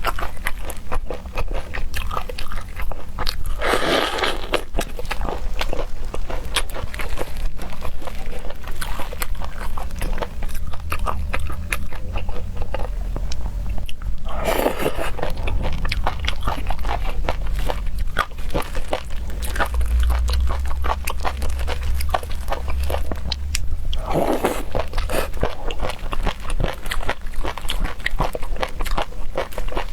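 Close-miked chewing and biting of seafood: dense wet clicks and crunches, with three louder noisy surges about ten seconds apart.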